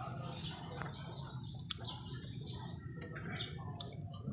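Small birds chirping repeatedly, with a steady low hum underneath and a few faint clicks.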